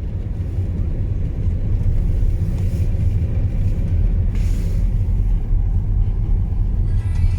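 Loud, steady low rumble with brief hissy swells about three and four and a half seconds in.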